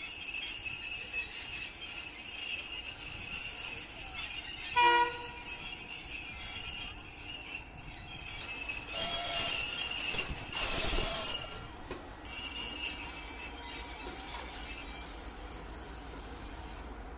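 Indian Railways train at a station: a steady high-pitched squeal runs through most of the stretch, a brief pitched tone sounds about five seconds in, and a louder stretch of noise comes from about nine to twelve seconds, then eases off.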